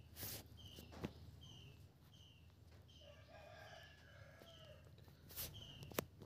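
Near silence with faint bird sounds: a short high chirp repeating about once a second, a longer distant call about three seconds in, and a few soft clicks.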